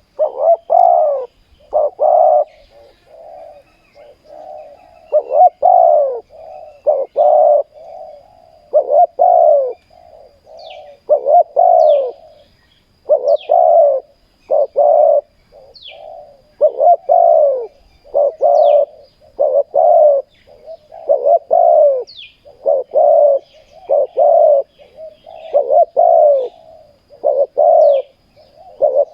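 Spotted doves cooing over and over, loud coo phrases with softer coos in between. Small birds give short high descending chirps every second or two from about ten seconds in.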